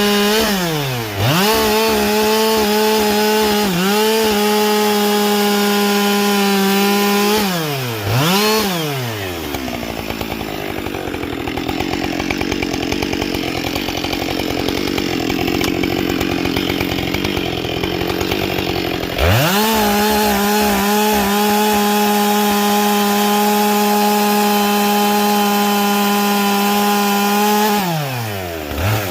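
Husqvarna 572 XP two-stroke chainsaw with a carbide saw chain cutting wood at full throttle, its pitch steady, dropping back briefly near the start and about eight seconds in, then running lower and rougher for about ten seconds before coming back up to full throttle and falling off again near the end.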